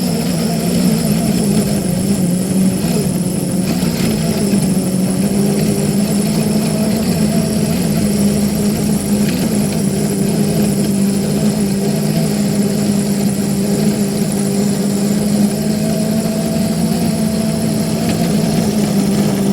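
Small locomotive's motor running steadily as it pushes a snowplow along the track: a constant loud drone with a strong low hum.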